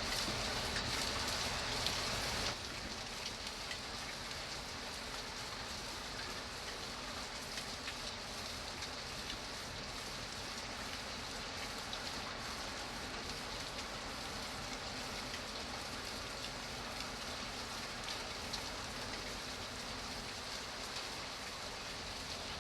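Steady rain falling on a surface, with single drops ticking through the hiss. About two and a half seconds in, the sound suddenly drops in level and loses some of its high hiss, then carries on evenly.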